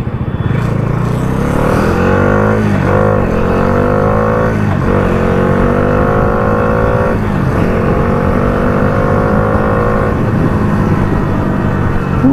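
Bajaj Dominar 400's single-cylinder engine accelerating through the gears. Its pitch climbs and falls sharply at three upshifts, about 3, 5 and 7 seconds in, then holds steadier at cruising speed.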